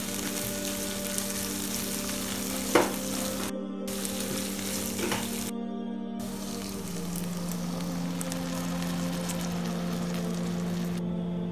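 Sausage slices and diced onion sizzling in oil in a nonstick frying pan while a spatula stirs them, with a sharp knock of the spatula against the pan about three seconds in and a smaller one a couple of seconds later. A steady low hum runs underneath, and the sizzle cuts out briefly twice.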